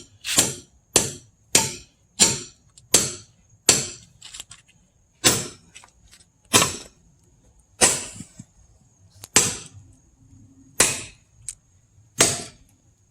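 A hammer drives a metal splitting wedge into a log along a natural crack that has already begun to open. About a dozen sharp ringing blows come quickly at first, then slow to one every second and a half or so.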